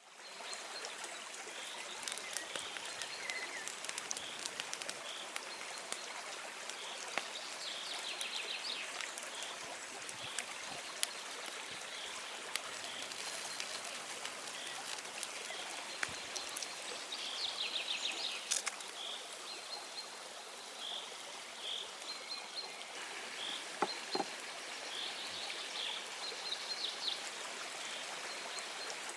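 A bird repeating a short high note about once a second, breaking now and then into a quick trill, over a steady rushing hiss with scattered small clicks.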